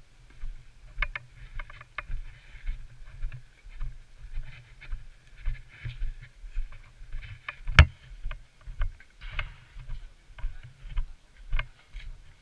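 Footsteps of the camera wearer walking, low thuds about twice a second, with gear rustling and light clicks. A single sharp crack a little under eight seconds in is the loudest sound.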